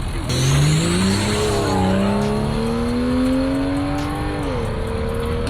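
Vehicle engine accelerating, its pitch climbing steadily for about four seconds, then dropping and settling to a steady note near the end.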